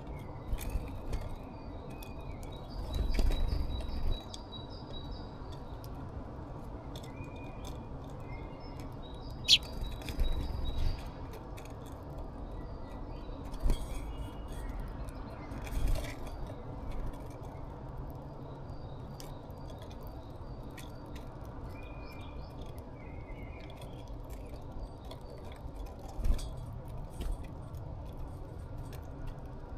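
Small birds chirping now and then at a backyard feeder, with scattered sharp clicks and taps over a steady low outdoor hum.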